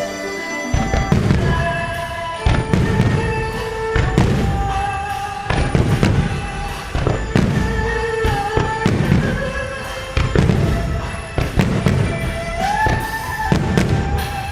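Aerial fireworks shells bursting in a rapid string of booms, about one a second, over the display's accompanying music with long held notes.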